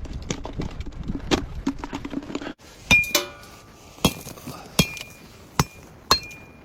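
Wind buffeting the microphone at first, then about five sharp metallic clinks roughly a second apart, most with a short ring, as fuel is knocked and broken into small pieces for kindling a stove.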